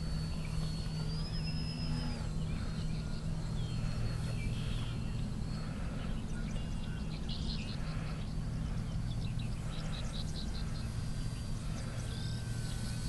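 Small birds chirping repeatedly, short high calls with a few brief whistled glides, over a steady low hum.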